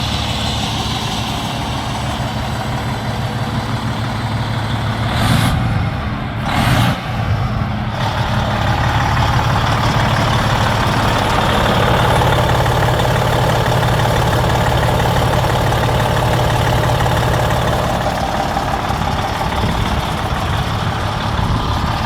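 A 2005 Freightliner Columbia semi truck's diesel engine idles steadily, with two brief loud bursts about five and seven seconds in.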